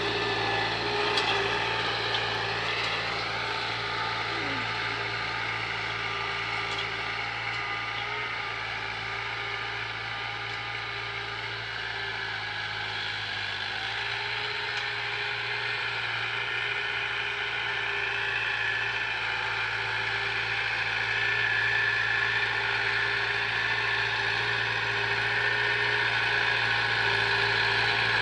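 Tractor diesel engine running steadily under load while pulling a harrow through a field, easing a little midway and picking up again toward the end.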